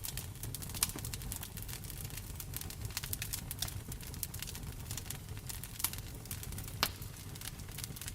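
Wood fire crackling in a fireplace: a dense run of small crackles with a few louder pops, about a second in and twice near the end, over a steady low rumble.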